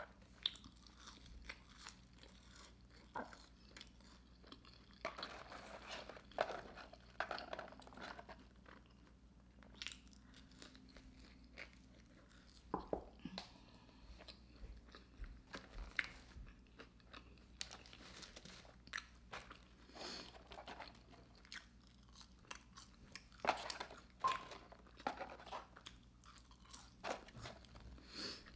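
A person chewing and biting into McDonald's French fries, with irregular soft crunches and mouth clicks.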